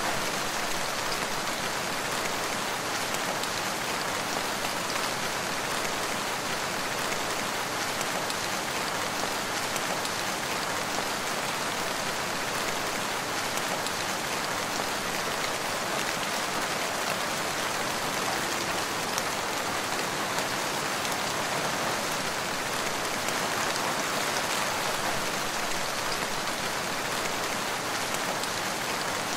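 Steady rain falling, an even hiss with the faint patter of individual drops landing.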